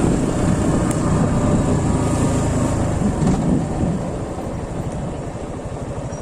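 Motorcycle engine and wind noise while riding. About four seconds in, the engine eases off to a slower, even putter near idle.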